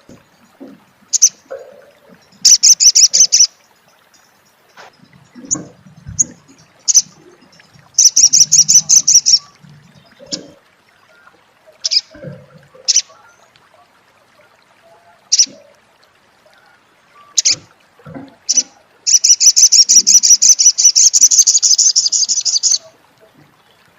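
Sunbird known locally as sogon or sogok ontong giving its 'crecet' chattering call: scattered sharp high single chips, broken by three bursts of very fast rattling chatter, the longest running about four seconds near the end.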